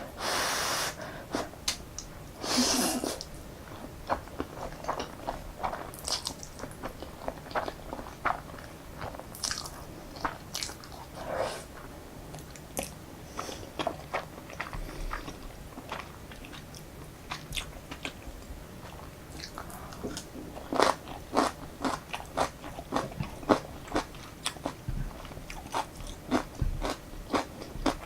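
Close-miked eating of Jjapaghetti noodles: many small, irregular wet chewing and mouth clicks. Two longer noisy bursts come near the start, the loudest at about three seconds.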